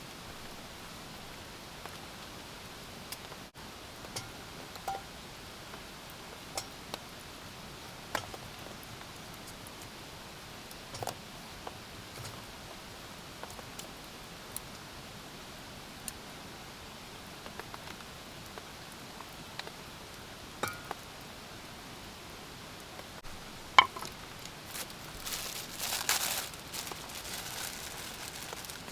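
Steady rain hiss with scattered drops tapping now and then. Near the end there is one sharp knock, followed by a couple of seconds of rustling.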